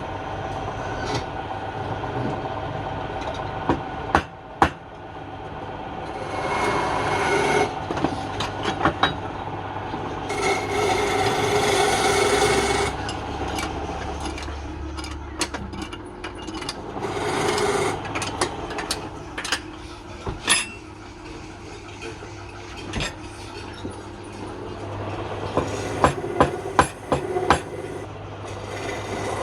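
Wood lathe running with a steady hum while a turning tool cuts the spinning wood in three rasping stretches of a couple of seconds each, with many sharp knocks and clicks, clustered near the end.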